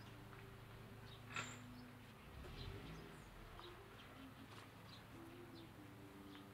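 Quiet outdoor ambience with faint, scattered short bird chirps over a steady low hum, and one brief, sharper, louder sound about one and a half seconds in.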